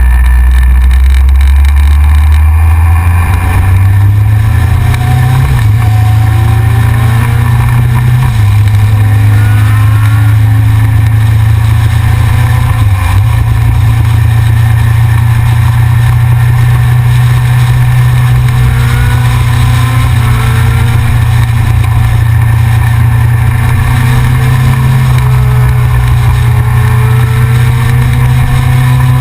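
Yamaha XJR's inline-four engine running under load while riding, its note climbing in pitch over the first few seconds, with a few brief dips, then holding steady.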